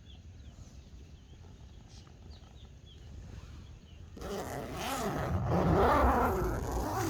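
Faint bird chirps, then about four seconds in a tent door zipper is pulled open in a long rasping run.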